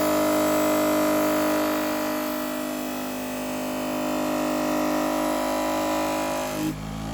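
Electric motor of a scissor-sharpening machine running steadily with a wool buffing wheel dressed in blue polishing compound, mirror-polishing a blade face. The hum dips a little in the middle and changes abruptly near the end.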